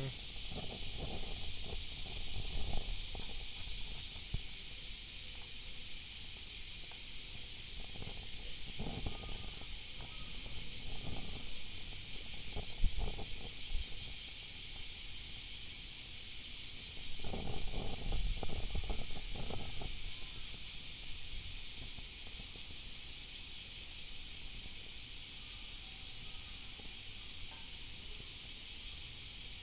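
Steady high hiss throughout, with a few bouts of rustling and light knocks: early on, around the middle, and for a couple of seconds past halfway.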